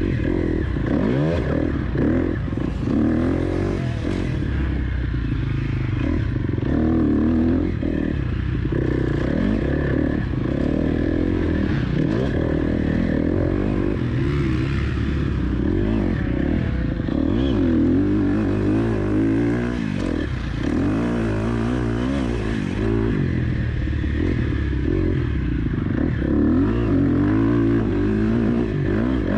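Four-stroke motocross bike engine (KTM 250 SX-F) revving up and down again and again as it is ridden hard around a track, the pitch rising and falling every second or two.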